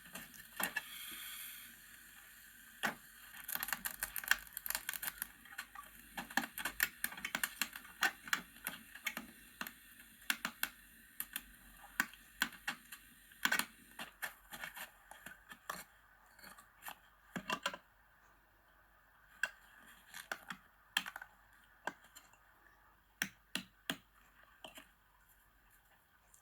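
A run of irregular light knocks and sharp taps, many a second at first and thinning out after about eighteen seconds.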